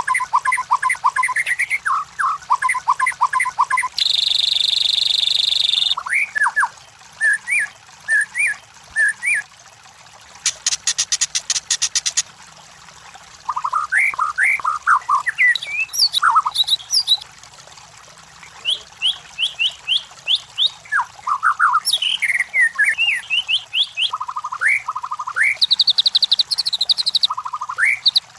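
White-rumped shama (murai batu) singing a varied song of short whistled phrases, quick slurred notes and trills, broken by a harsh buzzy rattle lasting about two seconds early on and a fast rattling run near the middle.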